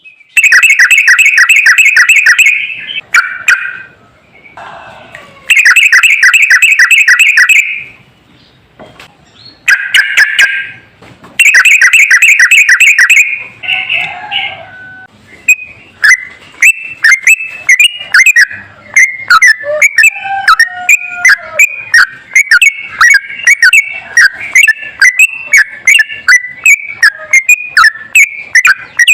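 Yellow-vented bulbul (trucukan) song on a bird-training recording. Three loud, fast rattling trills of about two seconds each are followed, from about halfway, by a long run of quick chirping notes.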